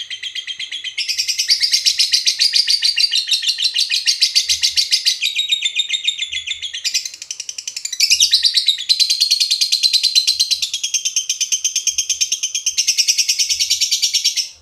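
Lovebird 'ngekek' song: a long, almost unbroken chattering trill of rapid, shrill chirps, its pitch stepping up or down every second or two. It cuts off abruptly at the end.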